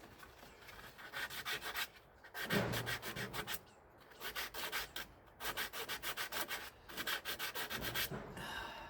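Corroded metal part being scrubbed by hand with an abrasive, in quick back-and-forth strokes that come in several bursts with short pauses between, to take off rust.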